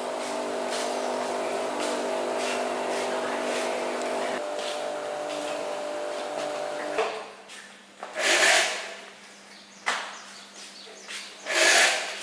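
A small engine runs steadily, then cuts off abruptly about seven seconds in. Three short hissing bursts follow.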